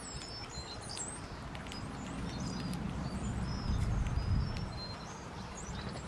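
Several birds giving short high chirps and whistles, over a low rumble that swells near the middle.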